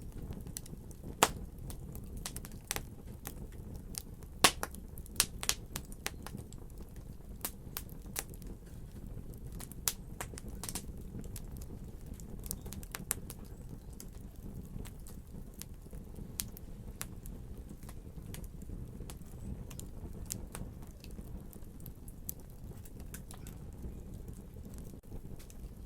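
Fire in a fireplace crackling: scattered sharp pops and snaps over a steady low rumble. The loudest pops come about one and four seconds in, and they grow sparser in the second half.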